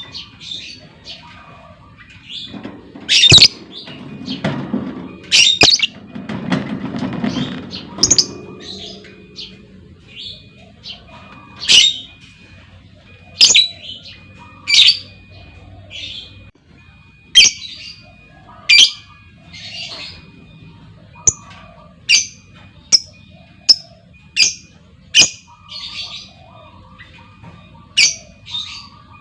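Lovebirds giving short, shrill squawking chirps at irregular intervals, about one every second or two: a lure call of the kind used to set other lovebirds off into long chattering.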